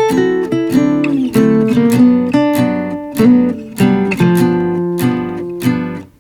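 Acoustic guitar music, notes plucked and strummed in a flowing sequence. It briefly fades out just before the end.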